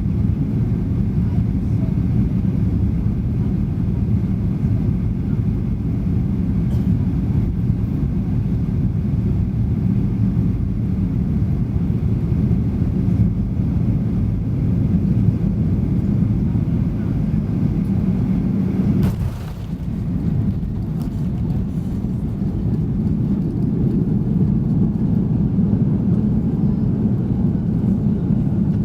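Steady low rumble of a Boeing 737's engines and airflow heard inside the passenger cabin. About two-thirds of the way through there is a faint click and the rumble briefly dips.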